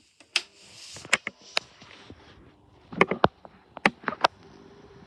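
Sharp clicks and knocks, about ten in five seconds and loudest in a cluster near the middle, over a faint steady hum from a Vent-Axia 12-inch desk fan.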